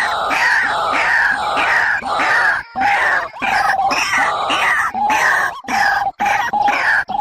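Rail (tikling) calling loudly: a fast run of harsh, repeated descending notes, several a second, broken by a few short gaps, as played to lure the birds into traps.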